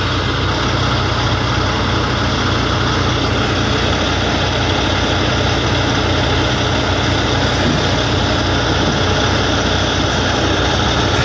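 Heavy truck engine running steadily with a constant low hum and no change in speed.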